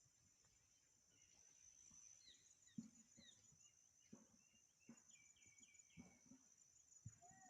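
Faint outdoor ambience: a steady high-pitched insect chorus with scattered short bird chirps and a few soft low thumps.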